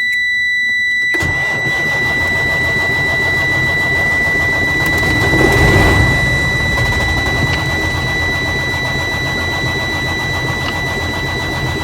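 Detroit Diesel Series 60 truck engine turned over on the starter from about a second in, a loud rough rumble that swells around halfway: a test start after the leaking fuel line that kept it from building fuel pressure was replaced. A steady high-pitched dash warning buzzer sounds throughout.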